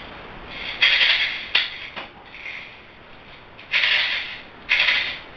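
M3000 spring-powered airsoft gun being worked and fired: four short, sharp, hissing bursts with a couple of crisp clicks between them.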